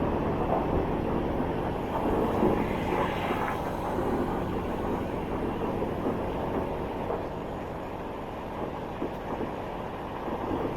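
Steady road, wind and engine noise from a motorbike riding through city traffic, a little louder and brighter for a second or so about two seconds in.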